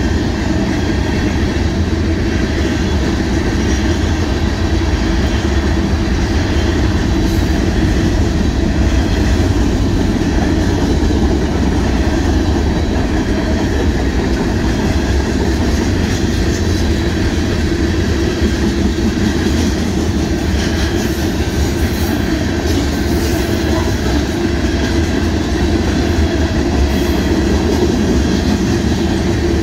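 Union Pacific mixed freight train's covered hopper cars rolling past: a steady, loud rumble of steel wheels on the rails.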